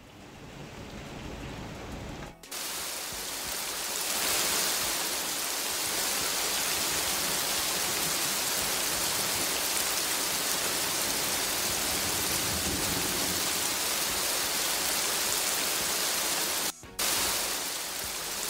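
Rain pouring down in a steady, dense hiss, after a low rumble in the first couple of seconds. The hiss cuts out briefly near the end, then resumes.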